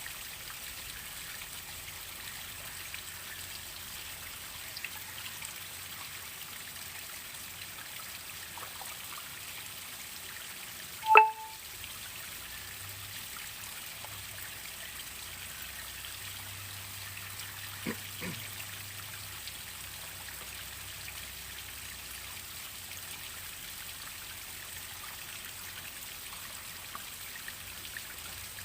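Water trickling and splashing steadily under a small waterfall. One loud, sharp plop cuts through about eleven seconds in, and two fainter ones come around eighteen seconds.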